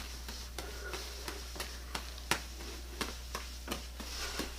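Juggling props being caught: short soft slaps into the hands, irregular, about two or three a second, over a low steady room hum.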